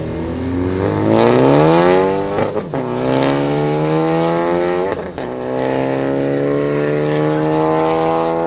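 A car accelerating hard away through the gears. The engine note climbs, drops at an upshift about two and a half seconds in, climbs again, and shifts again about five seconds in. It then holds a nearly steady, slowly rising note.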